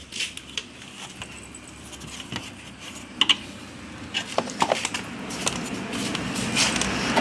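Scattered small metallic clicks, taps and clatter of parts and tools being handled while taking apart and refitting an electric bicycle's components, with one sharper knock about three seconds in.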